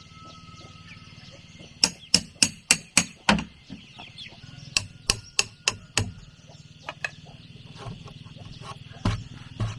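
Hammer striking wood, as when nailing boards: a quick run of about six blows, a pause, a second run of about five, then two more blows near the end.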